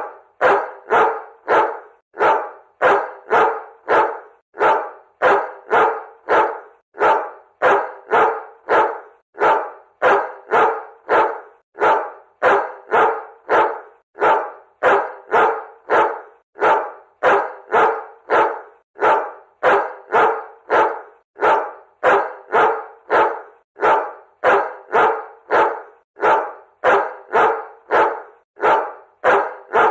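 A dog barking over and over in an even, unbroken rhythm, about two barks a second.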